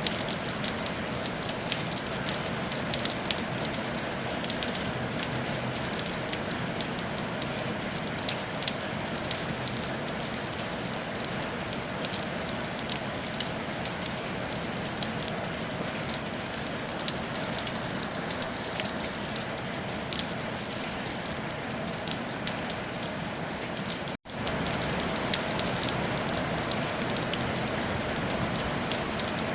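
Steady rain falling on a tile roof: a dense, even patter with sharp individual drop ticks. About three-quarters of the way through, the sound cuts out to silence for a moment and then resumes unchanged.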